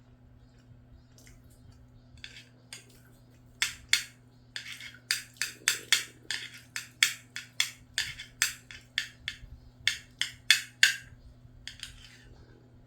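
Close-up eating sounds while eating rice with scrambled egg and gochujang: a run of short, sharp wet clicks and scrapes, about two or three a second, starting about three and a half seconds in and stopping near eleven seconds.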